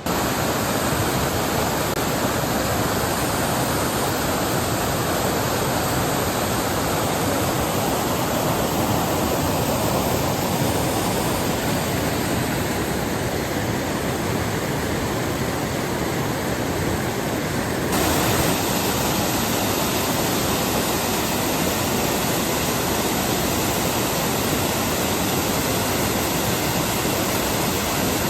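A waterfall's falling water rushing steadily. It cuts in abruptly at the start and shifts slightly in tone about two-thirds of the way through.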